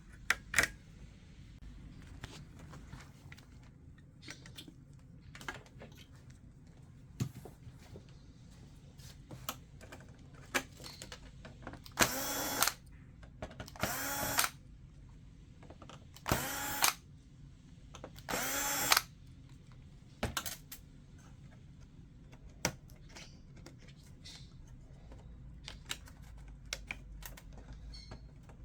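Electric screwdriver running in four short bursts, backing out the screws that hold a TV's main board, among light clicks and knocks of handling.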